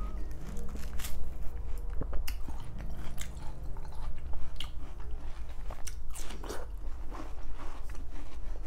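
Close-miked biting and chewing of fresh watermelon slices, with repeated crisp crunches scattered among the chewing.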